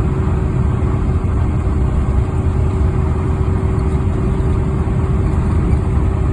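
An engine running steadily at idle: an even low rumble with a constant hum and no change in speed.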